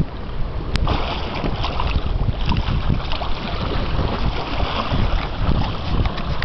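Wind buffeting the microphone: a loud, uneven rumble that rises and falls in gusts. There is a single sharp click just under a second in.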